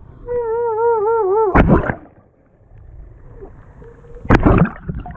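GE GTW220ACKWW top-loading washing machine agitating, heard from up close at the agitator with water and laundry churning. A wavering whine in the first second or so is followed by two loud whooshing surges of water, about two and a half seconds apart.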